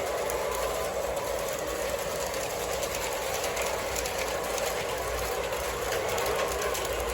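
O gauge model train running in reverse on three-rail 027 track: a steady electric-motor hum with fine rapid clicking from the wheels on the rails.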